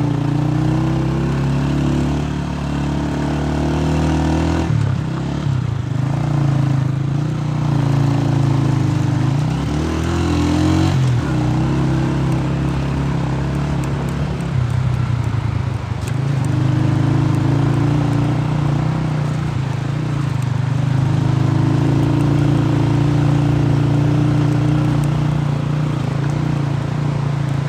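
A motor vehicle's engine running steadily; its pitch drops and picks up again several times as the engine speed changes.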